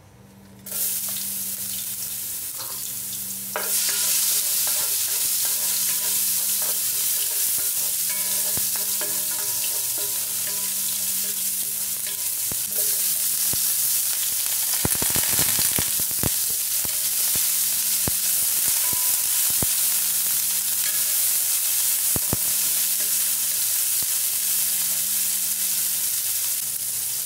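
Chopped garlic and sliced onions sizzling in hot cooking oil in a nonstick wok. The sizzle starts just under a second in and grows louder about three and a half seconds in. A utensil stirring the pan makes a cluster of taps and scrapes around the middle.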